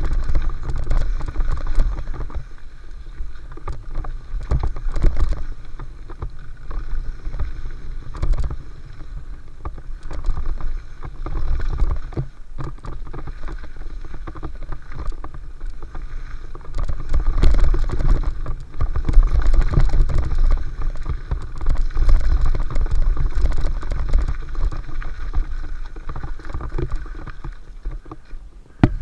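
Mountain bike descending a dirt flow trail: wind buffets the microphone in a loud, uneven low rumble over steady tyre noise, with frequent short rattles as the bike clatters over bumps.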